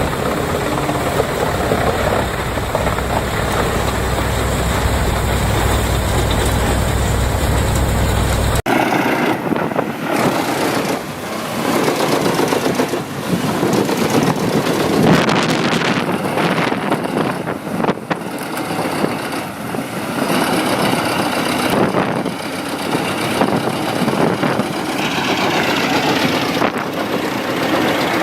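Wood chipper engines running. A steady low engine rumble cuts abruptly about eight and a half seconds in to a rougher, noisier machine sound that surges and dips unevenly.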